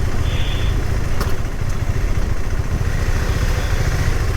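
KTM 390 Adventure motorcycle's single-cylinder engine running, under a steady heavy low rumble.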